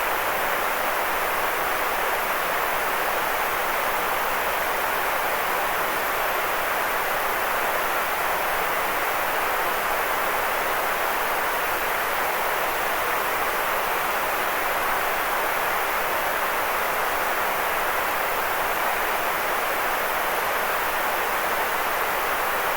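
Synthetic white noise: a steady, unchanging hiss, strongest in the middle range with little low rumble.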